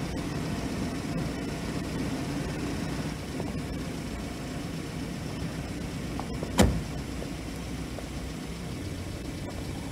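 A car engine idling steadily, with one sharp thump about two-thirds of the way through.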